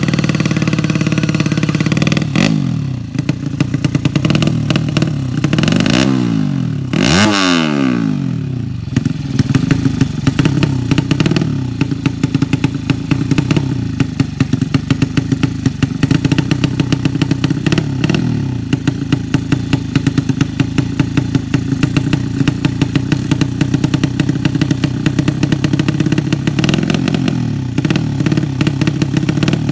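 Tuned 200cc drag-racing motorcycle engine running, blipped up and down a few times in the first eight seconds. After that it settles into a steady, lumpy idle with rapid crackling pops from the exhaust.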